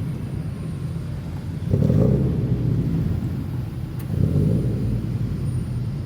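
Modified car's exhaust rumbling at low speed, with two short throttle blips, about two seconds in and again about four seconds in.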